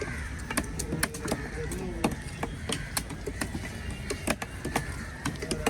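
Irregular sharp knocks, a few a second, of a knife chopping fish on a wooden cutting block, with market chatter behind.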